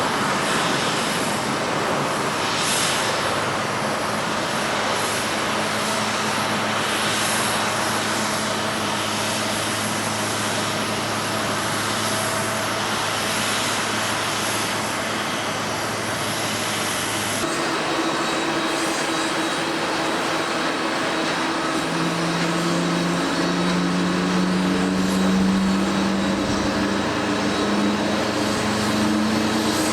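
Jet airliner engines: a Boeing 767-300ER's even rushing noise with a low steady hum, cut about two-thirds through to a Boeing 777-300ER whose droning engine tones step up and waver in pitch.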